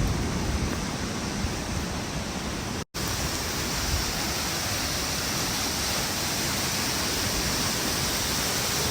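Water of a small creek waterfall rushing in a steady, even hiss; the sound drops out for an instant about three seconds in.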